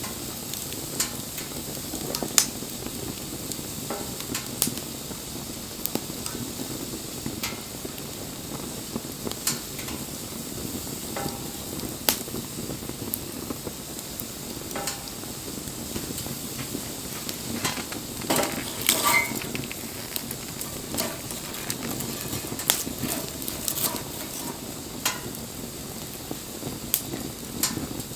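Wood bonfire burning: a steady hiss of flames with sharp crackles and pops at irregular intervals, bunching into a busier run of pops about two-thirds of the way through.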